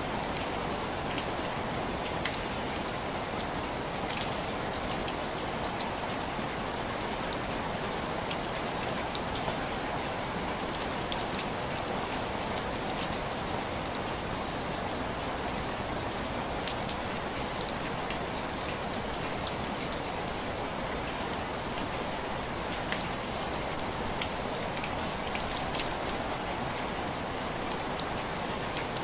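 Steady rain with individual drops tapping on a window pane: a dense, even hiss, with sharper drop ticks scattered throughout.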